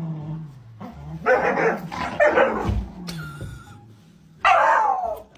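A dog barking and whining in a string of short, uneven calls, the loudest a pitched bark about four and a half seconds in.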